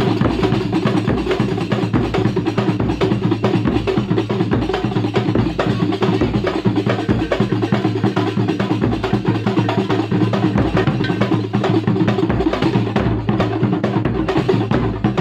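Kuntulan percussion ensemble playing continuously: a dense, steady rhythm of hand-struck frame drums over regular deep bass-drum thumps.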